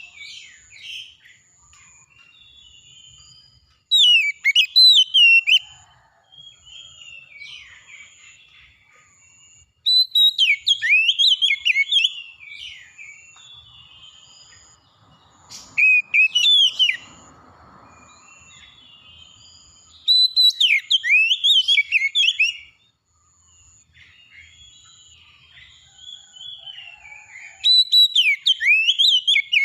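Songbird song: loud phrases of quick, varied whistles and trills about every five to six seconds, with softer chirps between them, over a faint high tone that pulses about once a second.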